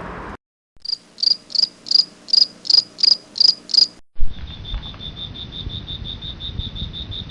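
Crickets chirping: about nine evenly spaced high chirps over three seconds, then, after a sudden short break, a faster steady pulsing trill at a slightly lower pitch.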